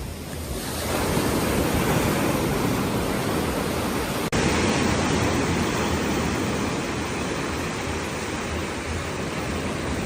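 Sea waves washing on the shore: a steady rush of surf that swells about a second in, with a brief cut about four seconds in.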